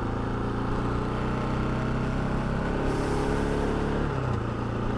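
Motorcycle engine running steadily at low revs, its pitch dipping slightly about four seconds in, with a brief hiss about three seconds in.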